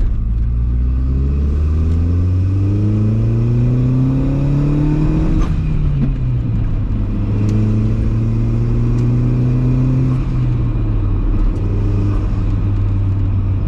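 Volkswagen 1.8T turbocharged four-cylinder engine pulling hard through the gears: revs rise steadily for about five seconds, drop sharply at a gear change, build again, then fall off near the end as the throttle eases.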